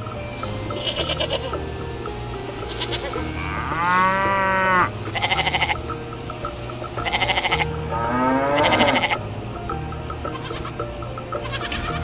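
Sheep bleating several times over background music. The loudest calls come about four seconds in and again just before nine seconds, with shorter wavering bleats in between.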